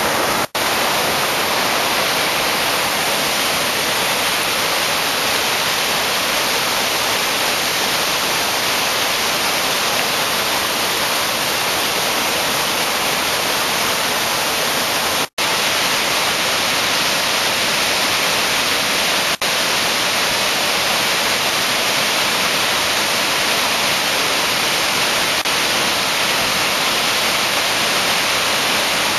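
Waterfall on the Krka River, water rushing in a loud, steady, even hiss. The sound breaks off for an instant about half a second in and again about fifteen seconds in.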